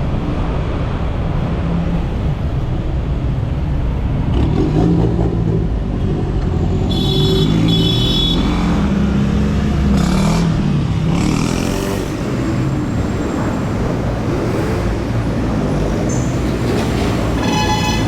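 City road traffic heard from a bicycle: a steady rumble of passing cars and motorcycles, with engine notes rising and falling as vehicles go by, and a few brief high-pitched tones partway through and near the end.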